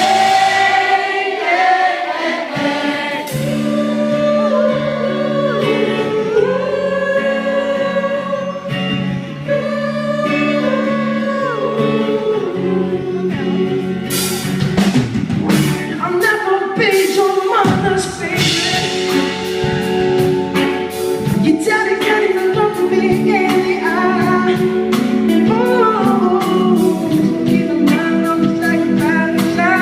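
Live pop performance: sustained wordless vocal harmonies over the band, with a steady percussive beat coming in about 14 seconds in.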